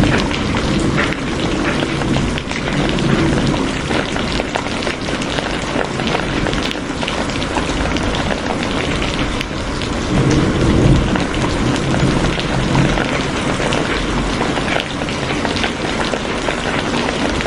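Steady heavy rain, a dense patter of drops. Low rumbles swell beneath it about three seconds in and again around ten seconds in.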